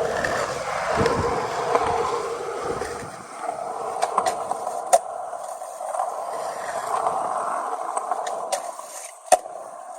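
Skateboard wheels rolling steadily, broken by sharp clacks of the board, the loudest about halfway through and again near the end.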